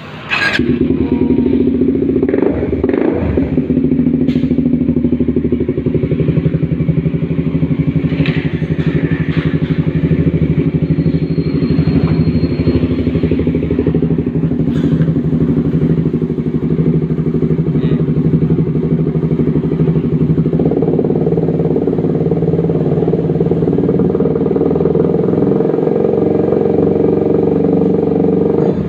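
Suzuki GSX150R single-cylinder engine running at a steady idle through an aftermarket Akralingga exhaust, a rapid even thumping exhaust note. It comes in abruptly just after the start and steps up a little, louder and fuller, about two-thirds of the way through.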